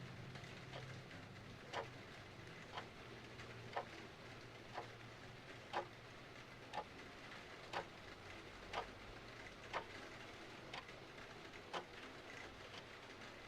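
Clock ticking about once a second, the ticks alternating louder and softer in a tick-tock, over a steady hiss of rain.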